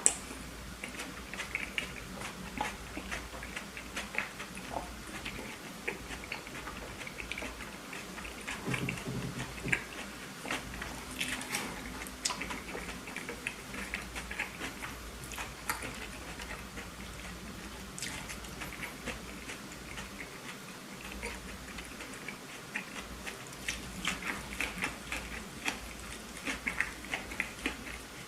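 Close-miked chewing of a burger: wet mouth sounds, smacks and small crunches, repeated irregularly. A sharp click at the very start is the loudest sound.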